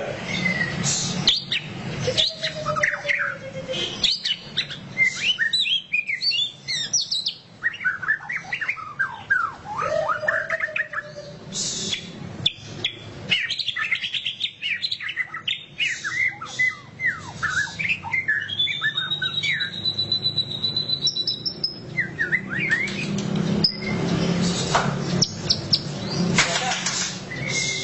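White-rumped shama (murai batu) singing loudly in the rapid chattering 'ngeriwik' style: fast runs of sharp chirps and slurred notes, with a long whistled note about two-thirds of the way through.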